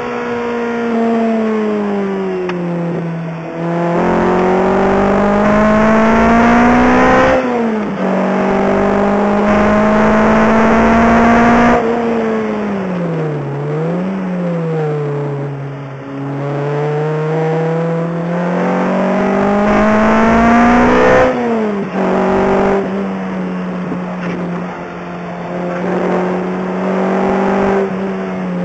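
Lotus Exige's engine, heard from inside the cabin, driven hard: the revs climb under acceleration and drop sharply at each upshift, three times. About halfway the revs fall away under braking, with one quick dip and rise as it changes down.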